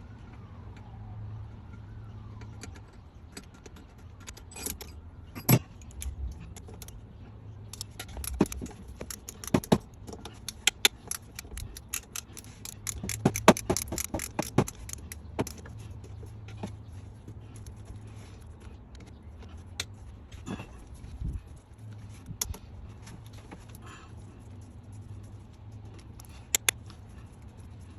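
Metal hand tools and bolts clinking and tapping against each other and engine parts: scattered sharp clicks, with a dense flurry in the middle, over a steady low hum.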